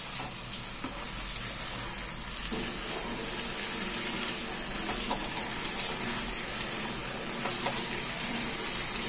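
Paneer, capsicum and masala sizzling in a nonstick kadai as they are stirred with a wooden spatula: a steady frying sizzle with a few light knocks of the spatula.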